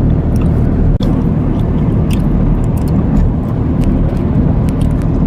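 Steady low engine and road rumble inside the cab of a moving truck, with a few faint small clicks.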